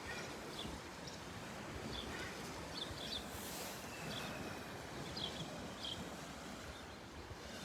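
Small birds chirping, short high calls scattered irregularly, over a steady outdoor background hiss.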